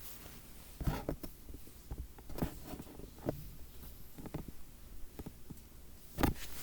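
Scattered soft knocks and rustles at irregular intervals, with a louder thump about six seconds in.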